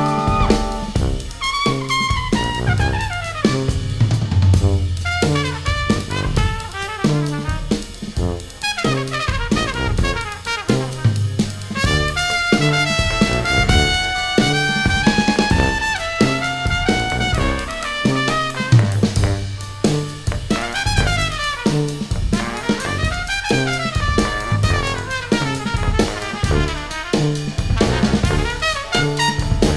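Jazz brass ensemble playing: trumpets carry gliding melodic lines over a drum kit keeping steady time with bass drum and cymbals.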